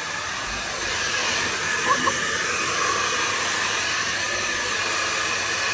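Hair dryer running steadily, blowing air while a dog is dried.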